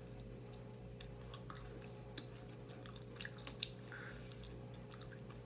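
Quiet chewing and gnawing on a baked chicken wing held in both hands: scattered soft mouth clicks and smacks over a steady low hum.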